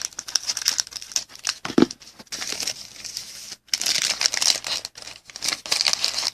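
Diamond Kings baseball card pack wrapper being torn open and crinkled by hand, in irregular crackling spells with short pauses.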